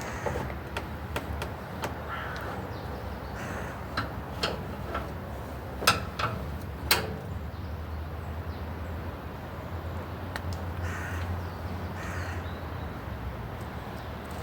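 A bird calling with harsh, caw-like calls several times, over a steady low background rumble, with two sharp clicks or knocks about a second apart near the middle.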